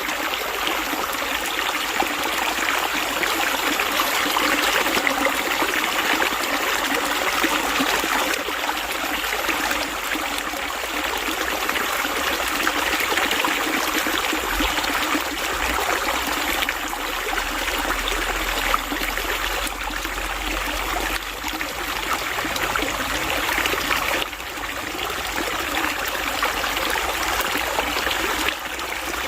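Water flowing and trickling steadily, a continuous splashing rush like a stream.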